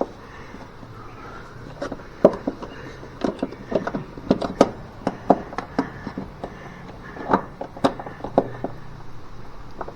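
Irregular knocks and clicks, a few loud and many lighter, as a shifter cable is worked through a hole in the car's floor pan.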